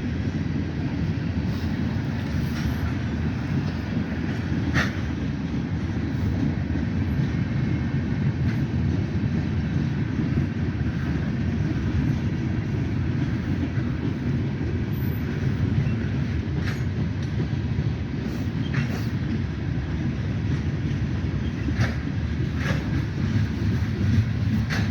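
Wheeling & Lake Erie freight train rolling past: a steady rumble of the cars on the rails, with a few sharp clanks scattered through it.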